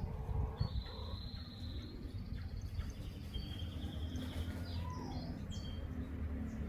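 Small birds chirping and trilling in short high phrases, with one lower falling note about five seconds in, over a steady low hum.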